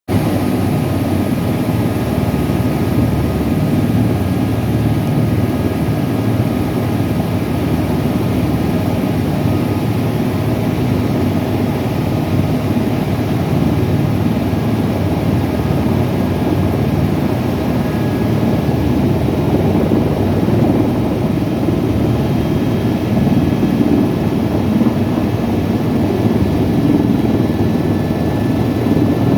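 Airbus EC130T2 helicopter, its single Arriel 2D turboshaft engine and rotors running steadily, with faint high steady whine tones over a dense low rotor noise, getting slightly louder in the later part.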